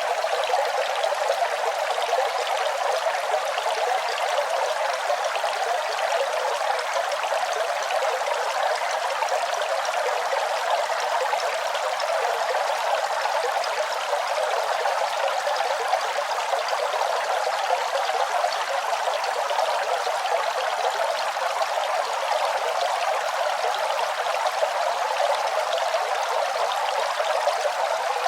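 Running water, flowing steadily without pause: an even splashing hiss with its weight in the middle and upper range and little deep rumble.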